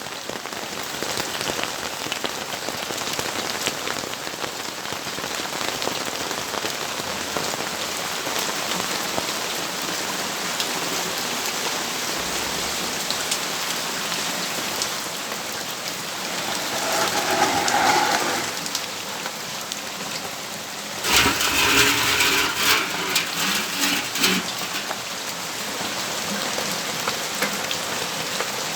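Steady rain falling on a surface, a dense even patter of drops. Past the middle a louder sound swells briefly, and a few seconds later a louder, fuller burst of noise lasts about three seconds before the rain alone returns.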